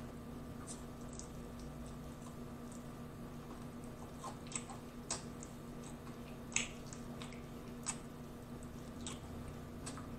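Quiet mouth sounds of a person eating fried chicken wings by hand: soft chewing with a few short, sticky smacks and clicks from about four seconds in.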